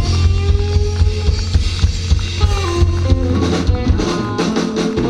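Live band playing an instrumental outro: drum kit keeping a steady beat under electric guitar and bass.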